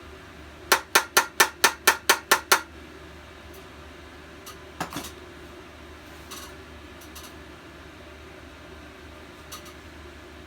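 A quick run of about nine sharp metallic clicks, roughly five a second, then a single click a couple of seconds later, from metal parts being worked on during a small-engine carburetor and gas tank teardown.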